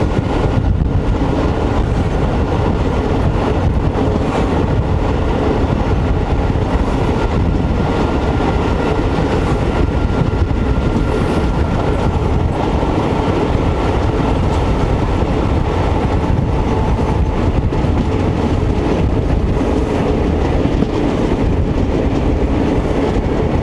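Indian Railways intercity express train running along the track, heard from an open coach doorway: a steady, loud rumble of wheels on rails and rushing air.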